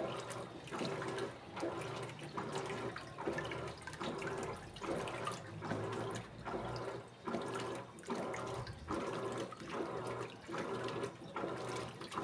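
Electrolux Essential Care top-loading washing machine agitating a full load in water: the agitator swishes back and forth in an even rhythm, about one stroke every three-quarters of a second, over the low hum of its motor, with water sloshing in the tub.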